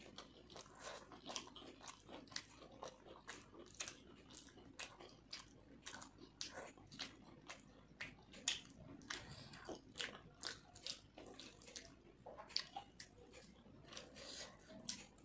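A person chewing and eating soft fried rice and chicken curry by hand: wet mouth clicks and smacks, a few each second.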